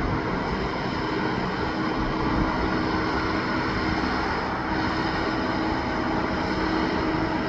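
Heavy truck running steadily: a continuous engine drone with a held low tone over road and tyre noise.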